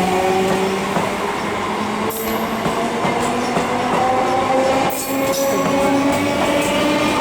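An electric multiple unit local train running past, its traction motors giving a whine of several tones that slowly rise in pitch. The wheels knock over rail joints twice, about 2 and 5 seconds in.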